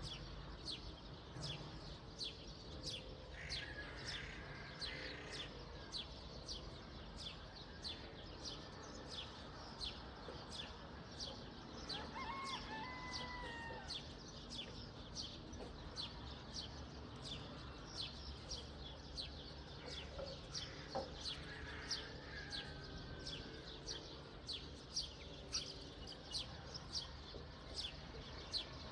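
Birds at dawn: a steady, rapid run of short, high chirps, about two to three a second, with longer, lower calls from other birds now and then over a faint low background hum.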